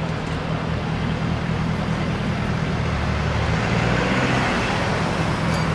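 Lamborghini Urus Mansory Venatus twin-turbo V8 idling with a steady low rumble as the SUV rolls slowly forward. About halfway through, another car passes close by, adding a swell of engine and tyre noise.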